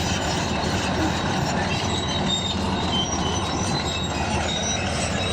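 Bulldozer running steadily while working, with short high squeals from its steel crawler tracks over the engine and rumble.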